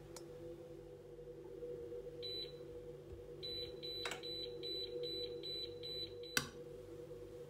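Electronic kitchen appliance beeping: one short high beep, then a run of quick, evenly spaced beeps at about three a second, ended by a sharp click. A steady hum runs underneath.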